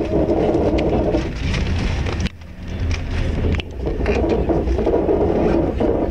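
Passenger train moving, heard from inside the carriage: steady rumble and clatter of wheels on the rails. The noise drops suddenly for about a second a little over two seconds in, then comes back.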